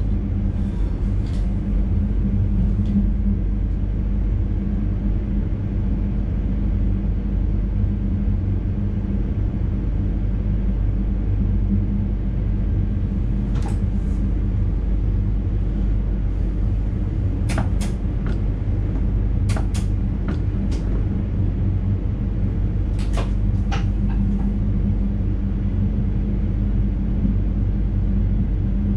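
Steady rumble and hum of an NS intercity train running on the track, heard from the driver's cab. A few short, sharp clicks and ticks come through in the middle stretch.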